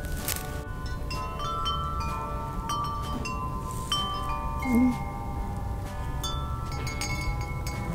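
Wind chimes ringing. Many clear metallic tones are set off at irregular moments, overlapping and each ringing on for a while.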